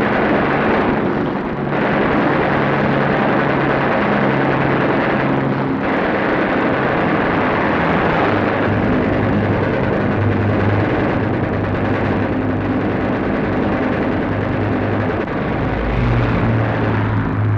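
Four-engined piston bomber droning loudly and steadily, its engine note shifting slightly from time to time: the Avro Lancaster's four Rolls-Royce engines.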